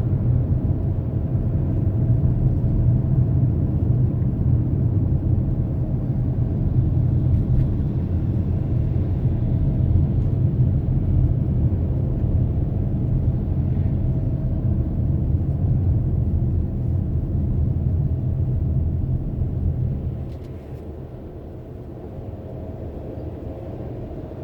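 Steady low rumble of a moving car's engine and tyres, heard from inside the cabin. It grows quieter about twenty seconds in.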